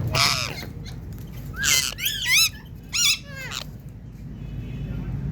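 Ringneck parakeet calling: a harsh squawk, then two runs of quick warbling calls whose pitch swoops up and down, about a second and a half in and again around three seconds in.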